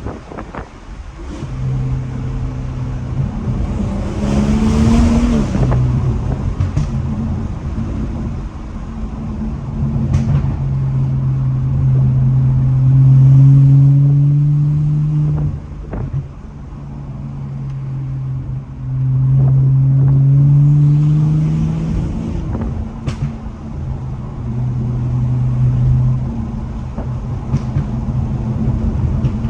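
Tuned BMW 440i's turbocharged 3.0-litre B58 inline-six through a catless, straight-piped exhaust, accelerating hard in several rising pulls, each broken by a drop in revs at a gear change. Sharp exhaust pops crack out between the pulls.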